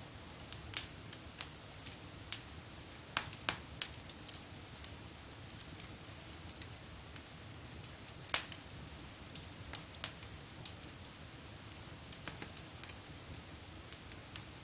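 Wood fire burning in a fireplace: irregular crackles and sharp pops over a low steady rush of flame, the loudest pop a little past the middle.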